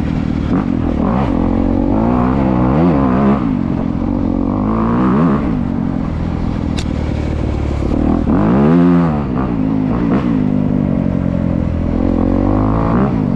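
A 2025 Honda CRF250R's single-cylinder four-stroke engine on its stock exhaust, running with several throttle blips that rise and fall in pitch. The biggest and longest rev comes about eight seconds in.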